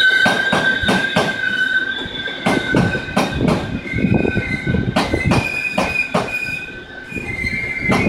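TRA EMU800 electric commuter train rolling slowly into the platform, its wheels giving a steady high-pitched squeal, with a second, higher squeal joining about halfway through. Repeated clacks and knocks of the wheels over the rail joints sound throughout.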